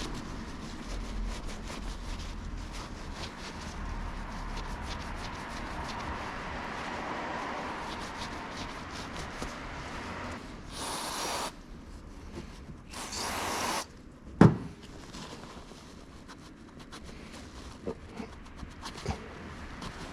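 Hand work on car brake parts: steady rubbing and scraping with small clicks, broken by two short hisses of aerosol parts cleaner about halfway through, then one sharp knock just after.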